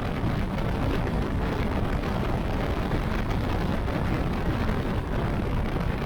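Wind rushing over a motorcycle rider's microphone at highway speed: a steady, loud roar heaviest in the low end, with no engine note standing out.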